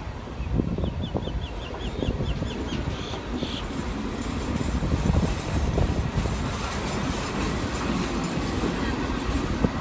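Electric suburban EMU train running on the track, heard from inside the coach as a steady low rumble. About a second in, a quick run of short high chirps sounds for about two seconds.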